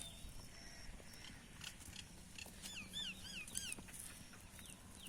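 Animal calls: a quick run of about five short, high chirps, around three seconds in, over scattered light clicks.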